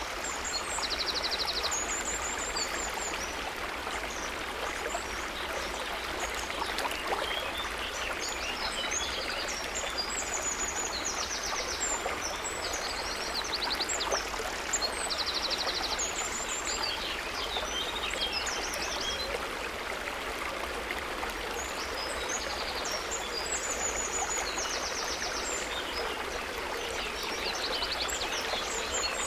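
A river or stream running steadily. Small birds chirp and give quick trills over the water throughout.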